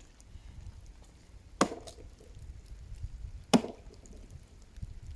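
Axe blows into the trunk of a dead tree: two sharp chops about two seconds apart, with a fainter knock near the end.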